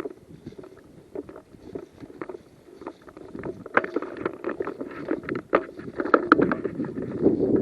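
Irregular rustling and crackling, like footsteps and body movement through undergrowth and dry leaves, growing louder and busier about halfway through.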